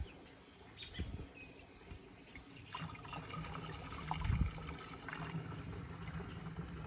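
Liquid spraying and splashing onto a driveway, a steady hiss that picks up about three seconds in, with a dull thump a little after.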